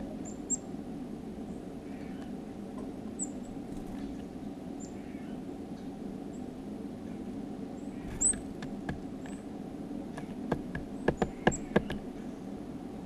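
Small songbirds giving short, thin, high chirps over a steady low background hum. A quick run of sharp taps comes near the end.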